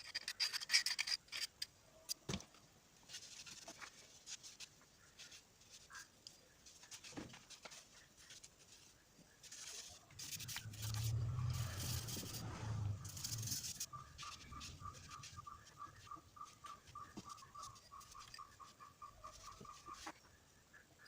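Hand work on metal parts: scattered scraping, tapping and clicking, with a louder stretch of scraping and a low hum about halfway through, then a rhythmic high squeak repeating several times a second near the end.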